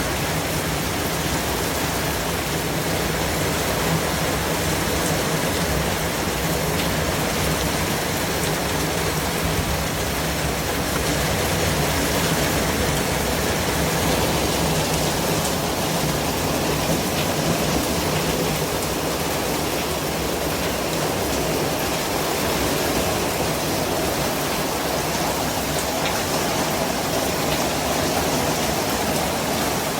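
Continuous white noise: an even, unbroken hiss spread across low and high pitches, holding steady throughout.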